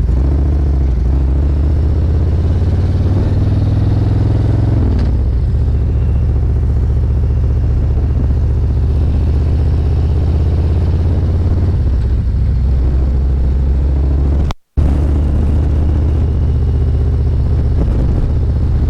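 Motorcycle engine running steadily under way, its pitch dropping about five seconds in as the bike eases off or shifts. The sound cuts out completely for a split second near the end.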